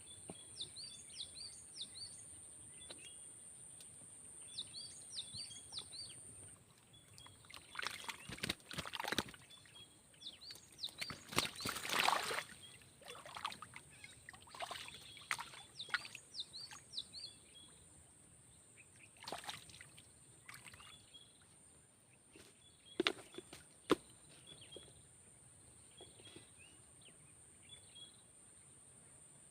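Riverside ambience: small birds chirping over and over, a steady high-pitched insect drone, and scattered short bursts of noise that cluster in the middle and peak about twelve seconds in.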